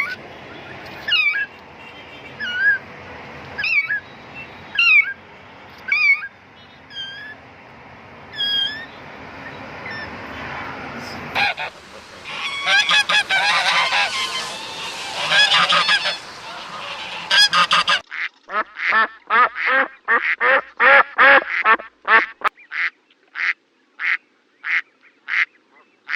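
Waterfowl calling. Single honking calls come about once a second at first, then many birds call over one another, and near the end there is a quick regular run of calls, about two a second.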